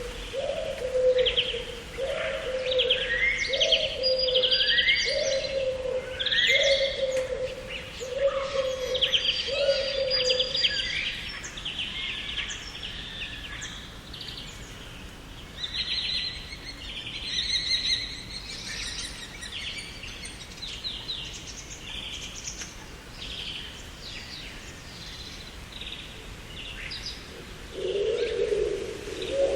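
Garden songbirds chirping and singing in quick overlapping phrases, with a low call repeated about once a second through the first third and starting again near the end.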